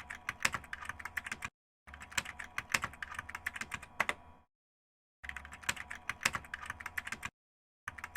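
Computer-keyboard typing: rapid runs of key clicks, each lasting one to three seconds and cut off abruptly into dead silence, three times over, with a fourth run starting near the end. This is a typing sound effect laid over the edit.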